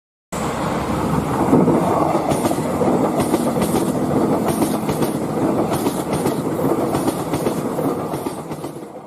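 Train passing: a steady rumble of wagons with repeated clickety-clack of wheels over rail joints. It starts abruptly just after the beginning and eases off near the end.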